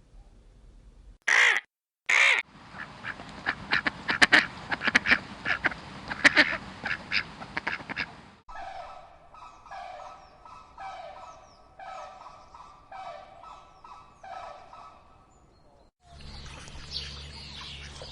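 A run of bird calls from several different birds. It opens with two short loud calls, then comes a stretch of dense, rapid calling, and then a single pitched call repeated about once a second.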